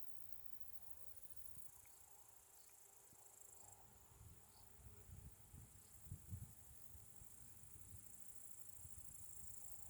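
Faint, steady high-pitched chirring of crickets or grasshoppers, with irregular low rumbles from wind or handling on the microphone, strongest about halfway through.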